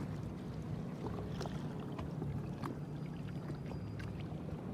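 Small waves lapping and splashing lightly against the hull of a jet ski drifting with its engine switched off, with a few small ticks over a steady low hum.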